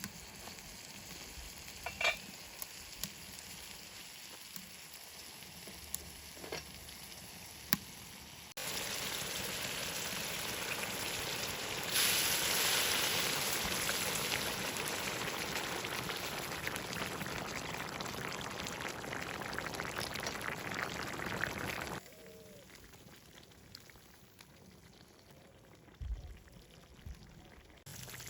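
Food frying in hot oil with a steady sizzle and a few small clicks. It gets louder in steps about a third of the way in, then stops abruptly after about three quarters of the way.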